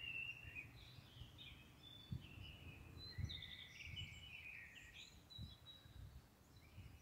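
Small birds singing faintly, a run of short chirps and warbling phrases, over a low background rumble with a few soft thumps.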